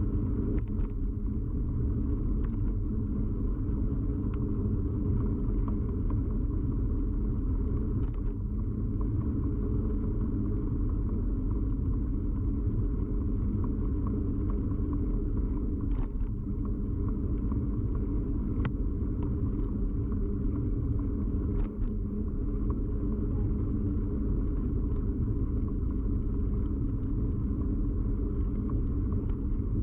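Steady low rumble of a bicycle in motion, its vibration and road noise picked up through a camera clamped to the bike, with occasional sharp clicks.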